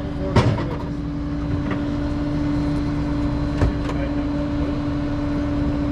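A motor running steadily with a constant hum over a low rumble, with a couple of sharp knocks, one about half a second in and one a little past halfway.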